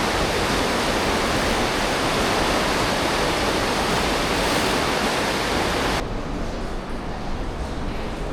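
Aare River water rushing through a narrow rock gorge: a loud, steady, hiss-like rush. About six seconds in it suddenly turns duller and a little quieter.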